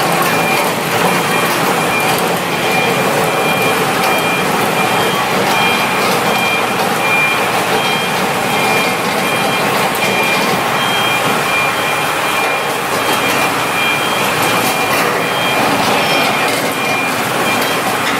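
Steady loud machine noise, with two high thin tones that keep cutting in and out over it.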